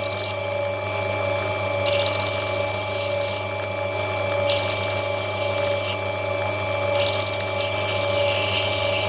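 Black opal being ground on a spinning lapidary grinding wheel: the hiss of stone on the wheel comes in strokes about a second and a half long, three times, over the steady hum of the machine's motor. The stone is being rolled against the wheel to grind back its surface.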